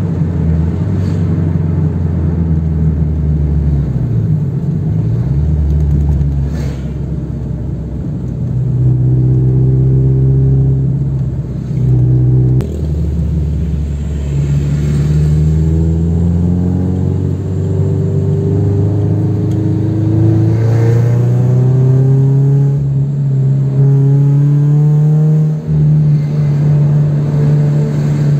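Toyota 86's 2.0-litre flat-four boxer engine heard from inside the cabin while driving. Its pitch climbs several times as the car accelerates and drops back at each gear change.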